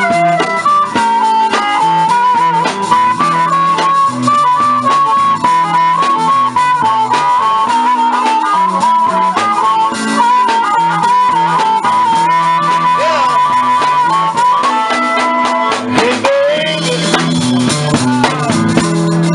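Live blues band playing, with a harmonica carrying the lead in long held notes that waver and bend, over guitar accompaniment.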